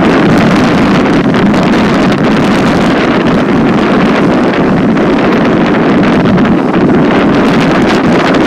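Strong wind buffeting the microphone, a loud, steady rush with no breaks.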